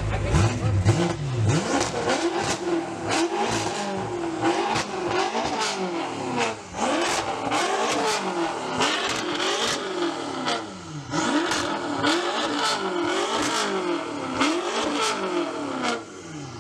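Car engine being revved hard in quick repeated blips, about one or two a second, its pitch climbing and dropping each time. Sharp cracks sound between the revs.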